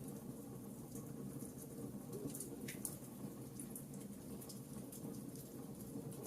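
Campfire burning: a steady low rumble of the flames under scattered sharp crackles and pops of the burning wood, with a couple of louder pops a little over two seconds in.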